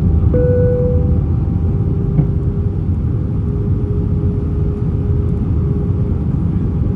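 Airbus A320 in flight: a steady, even rumble of its engines and airflow with a constant hum running through it. A brief higher tone begins with a click about a third of a second in and lasts under a second.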